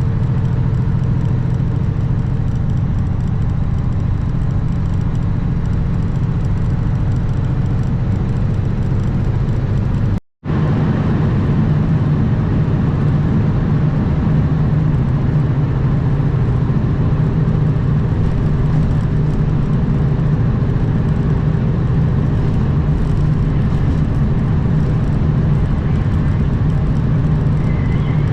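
Kenworth W900 semi truck's diesel engine running at a steady cruise, a low even drone mixed with road and wind noise. The sound cuts out completely for a split second about ten seconds in, then resumes unchanged.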